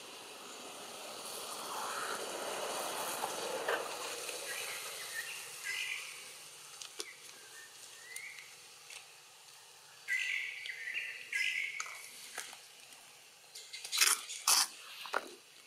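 Outdoor ambience with a rising hiss early on, then several short high-pitched chirps and squeaks from birds or monkeys, and a few loud sharp rustling or crackling bursts near the end.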